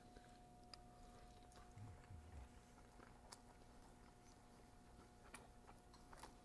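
Near silence: faint chewing and small mouth clicks from a person eating.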